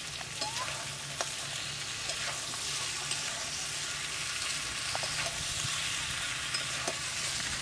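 Chicken pieces and chopped tomatoes sizzling in a metal karahi while a spatula stirs them, as the spiced meat is fried down (kasha). A steady hiss of frying, with a few sharp scrapes and knocks of the spatula against the pan.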